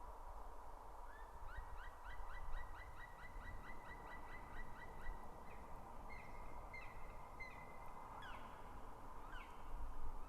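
Black woodpecker calling: a fast series of about sixteen ringing notes, roughly four a second, then several slower, drawn-out calls that fall at the end. A faint steady hum runs underneath.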